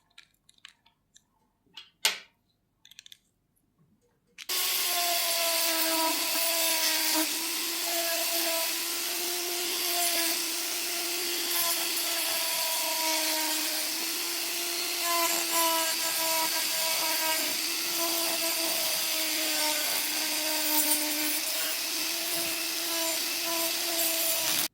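A few light clicks and taps, then a small high-speed electric power tool starts suddenly about four and a half seconds in and runs steadily with a whine and a gritty hiss, its pitch dipping slightly now and then, until it cuts off at the very end.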